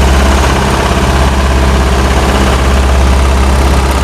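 Heavy trailer truck's diesel engine idling close by, a loud, steady low hum that holds at one pitch.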